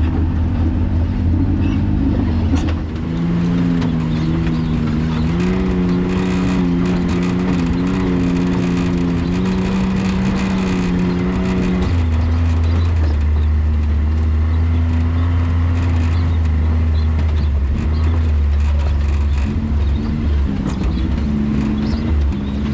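Can-Am Maverick X3's turbocharged three-cylinder engine running on a rough trail, its pitch climbing and wavering with the throttle for the first half, then running lower and steadier for the rest.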